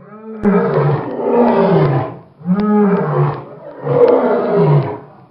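African lion roaring: three long roars in a row, each rising and then falling in pitch.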